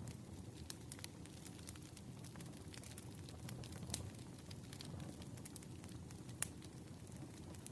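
Wood fire crackling: scattered sharp pops and snaps over a low, steady burning noise, with one stronger pop about six and a half seconds in.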